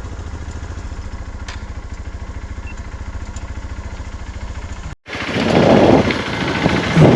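Motorcycle engine running with a steady, even low pulse; about five seconds in the sound cuts off abruptly and gives way to louder engine noise with wind rushing over the microphone in swells.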